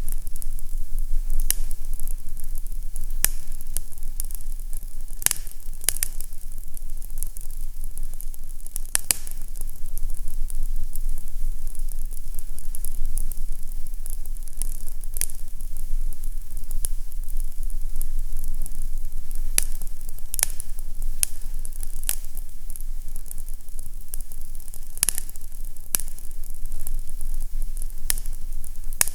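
Wood fire crackling in a fireplace: a steady low rumble and hiss with sharp, irregular pops and crackles.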